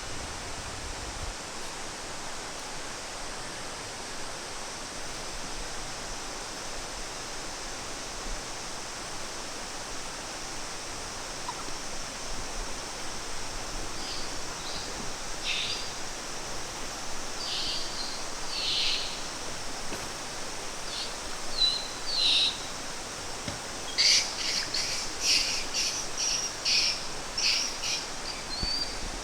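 Birds chirping: short high calls, sparse from about halfway and coming thick and loud near the end, over a steady rushing background noise.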